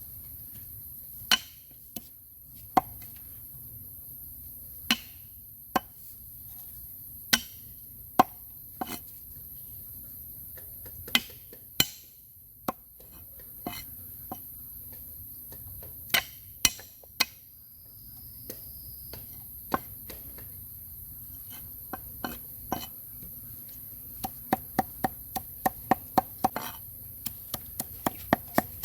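A knife chopping on a wooden board: single, separate chops spaced out at first, then a quicker run of about three chops a second near the end.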